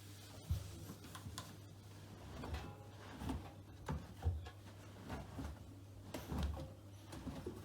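Miele Professional PW6065 Plus washing machine early in its wash cycle: a steady low hum with irregular soft thumps and clunks as the drum turns the laundry.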